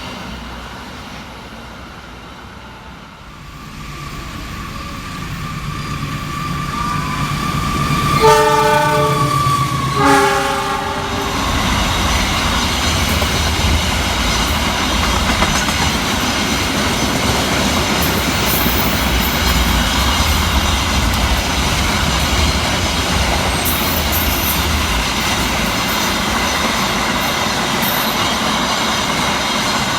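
A train approaches and runs through the station: the locomotive's horn sounds twice, a short blast then a longer one about two seconds later. The cars then pass with a steady heavy rumble and clatter of wheels on the rails, with a few brief high wheel squeals.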